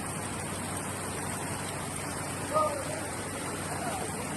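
Steady rushing noise of heavy monsoon rain, with one brief louder sound about two and a half seconds in.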